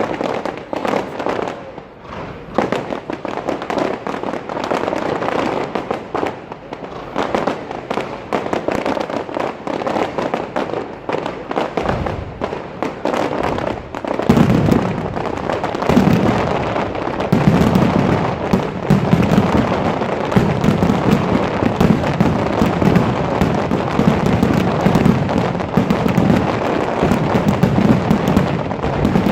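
Fireworks display: dense crackling and popping of firework shells and effects going off close by. From about halfway in, deep booms of bursting shells come in again and again over the crackle.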